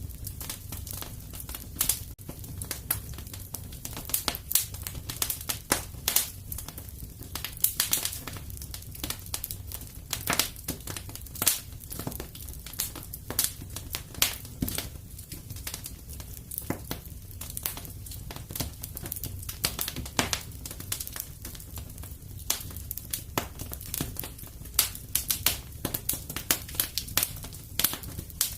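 Wood fire crackling in a fireplace: irregular pops and snaps, several a second, over a low, steady rumble of the flames.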